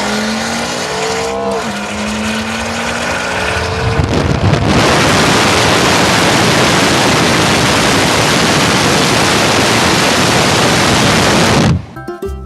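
A high-performance car engine accelerating hard, its pitch climbing, dipping briefly at a gear change about a second and a half in, then climbing again. About four seconds in it gives way to a loud, even rushing noise with no clear pitch, which cuts off suddenly near the end.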